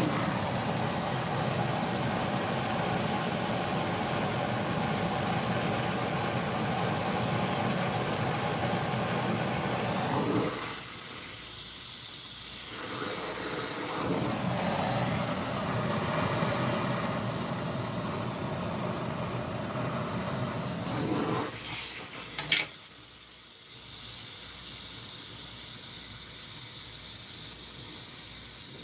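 Heavy-duty gas torch flame hissing steadily on a crucible of melting silver. It drops away about ten seconds in and returns a few seconds later. A sharp click comes a little past twenty seconds, after which a quieter hiss goes on.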